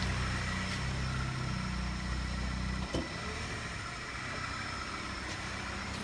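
Car engine idling steadily with a low, even hum, and a short knock about three seconds in.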